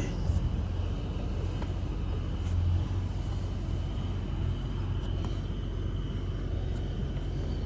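Steady low mechanical rumble with a faint, steady high-pitched whine above it.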